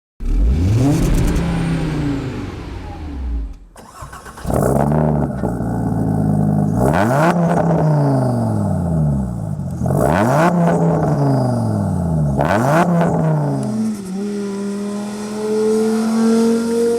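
Audi TT Clubsport Turbo's turbocharged 2.5 TFSI five-cylinder engine revving hard several times in a row, the exhaust note climbing and falling with each rev, with sharp cracks between revs. About three seconds before the end it settles into a steadier, even note.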